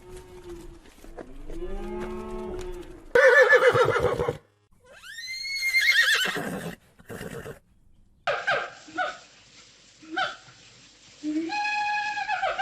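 A string of different farm animal calls, each cut off sharply before the next. Low calls come first, then a loud call about three seconds in and a high call that rises and falls in pitch. Near the end comes a run of short, repeated calls.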